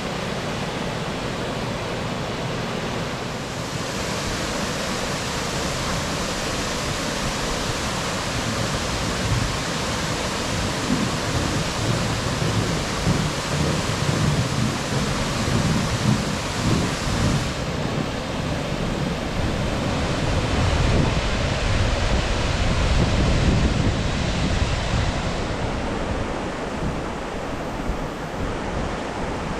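Bond Falls waterfall rushing: a steady hiss of falling water that grows brighter a few seconds in and duller again about halfway through. Gusty wind buffets the microphone through the middle stretch.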